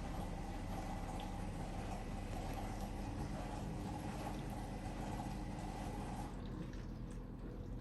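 Hotpoint dishwasher pump running with water rushing through it over a steady low hum. About six seconds in, the rushing stops and the low hum carries on with a few faint drips.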